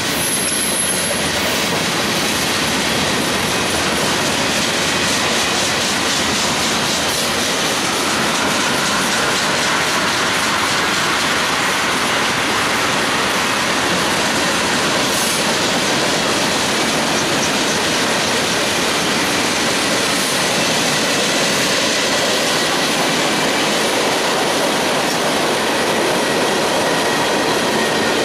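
Freight cars of a mixed manifest train rolling past close by: a loud, steady rumble of steel wheels on rail, with a faint thin wheel squeal over it.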